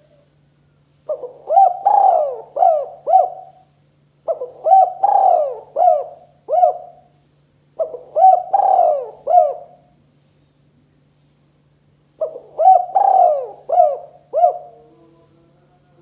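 Spotted dove (tekukur) cooing: four phrases of about five notes each, separated by short pauses.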